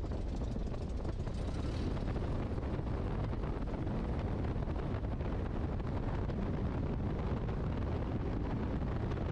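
Great Lakes open-cockpit biplane in flight: steady engine and propeller drone with wind rushing over the microphone.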